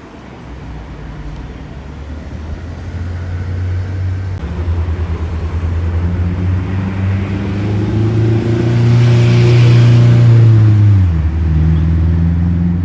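A car with a deep engine note drives past. Its engine grows steadily louder over about ten seconds, with a rush of tyre and air noise at the loudest point, then the pitch drops sharply about eleven seconds in.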